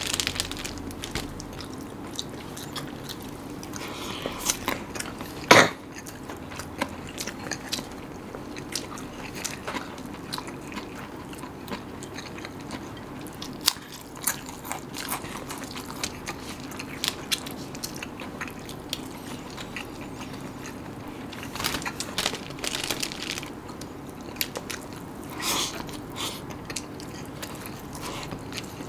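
Close-miked eating of a nasi ambeng rice platter: wet chewing and crunching with many small mouth clicks. One sharp, louder click comes about five and a half seconds in, and stronger crunching comes near the end.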